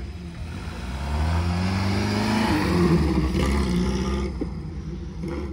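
Vintage open two-seater sports car's engine accelerating past, rising in pitch, then easing off as the car pulls away.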